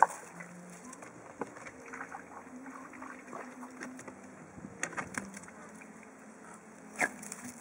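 A boat's motor humming steadily, its pitch shifting a little, with scattered sharp knocks, the loudest right at the start and another about seven seconds in.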